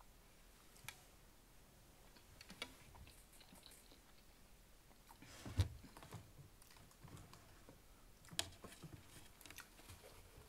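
Faint close-up chewing of a mouthful of jambalaya, soft irregular mouth clicks and smacks, with two sharper clicks about five and a half and eight and a half seconds in.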